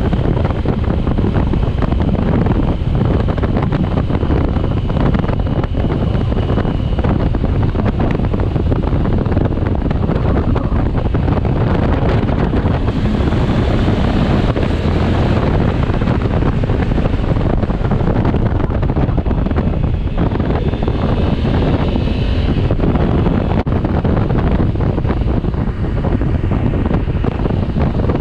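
Loud, steady wind rushing over a camera microphone on a moving motorcycle, a dense low rumble with no let-up.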